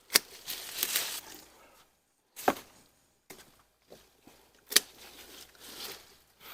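Pruning shears snipping through tomato plant stems: three sharp snips, about two seconds apart, with the rustle of the cut foliage being handled between them.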